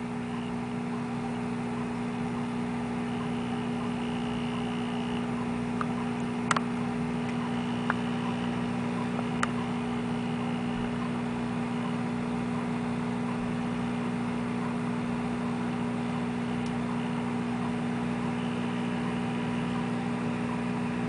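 Old 1970s General Electric microwave oven running: a steady electrical hum with its cooling fan, unchanging throughout, with a few faint clicks a third of the way in.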